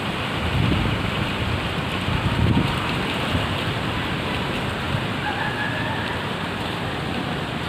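Steady heavy rain falling, an even hiss, with two brief low rumbles in the first three seconds.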